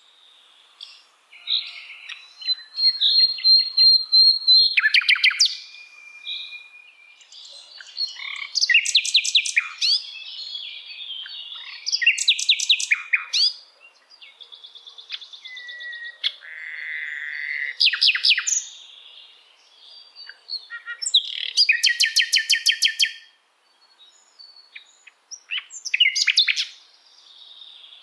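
Sikatan londo (common nightingale) singing a varied song of short phrases with brief pauses between them: rapid trills of repeated sharp notes, drawn-out whistles and buzzy, rattling notes.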